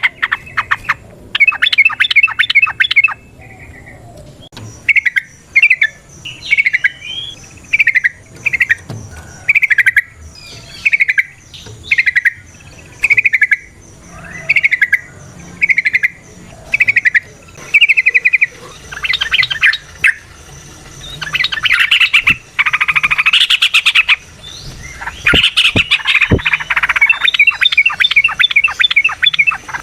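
Yellow-vented bulbul (trucukan) singing: short bubbly phrases repeated about once a second, giving way after about twenty seconds to denser, rapid chattering runs.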